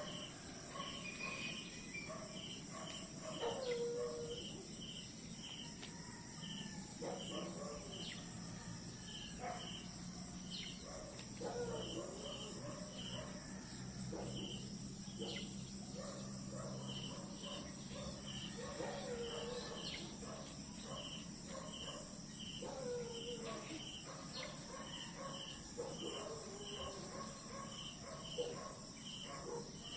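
Crickets and other insects chirping in a steady night-time style chorus: a continuous high shrill buzz with regular chirps about twice a second, broken by occasional short lower calls and a faint low hum in the middle.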